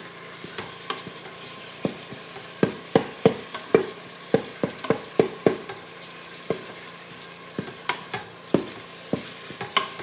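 Ground beef sizzling in an electric pressure cooker's inner pot on the browning setting, while a utensil stirs it, knocking and scraping irregularly against the pot.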